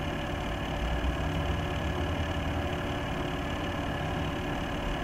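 Corsair H100 water-cooling pump running loudly in a PC, a steady hum with several held tones over the fans. It is the noisy-pump fault known in some H100 units, loud enough to drown out eight fans.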